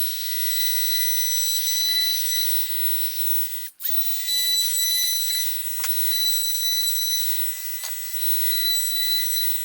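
Cordless router with a small round-over bit running at full speed, a steady high whine over hiss, as it rounds over the edges inside drilled holes in wood. The sound stops for a moment a little under four seconds in, then carries on.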